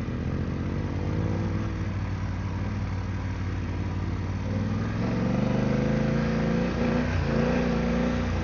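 BMW F900GS parallel-twin motorcycle engine running at low revs with changing throttle, its pitch and loudness stepping up about five seconds in.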